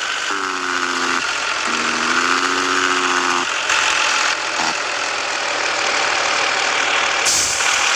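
Scania S 450 truck driving loaded, with steady engine drone and road noise. A pitched hum sounds for the first three seconds or so, then stops.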